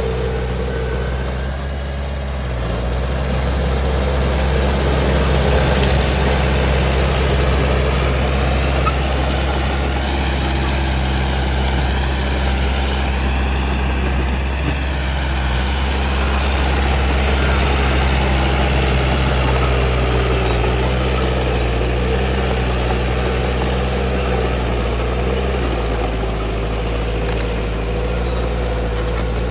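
Heavy construction-machine diesel engine running steadily at low, even revs, with a faint higher whine above it.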